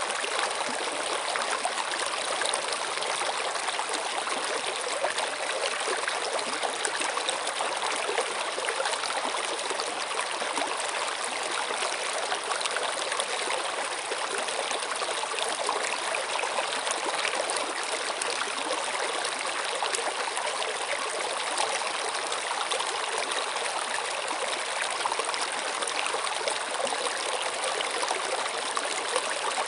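A stream of water running steadily, splashing and trickling without a break.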